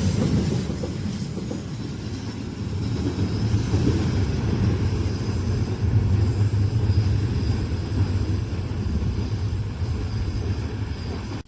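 A train rolling past on curved track, a steady low rumble of wagons and wheels, with faint high wheel squeal fading in the first second or two. The sound cuts off abruptly at the end.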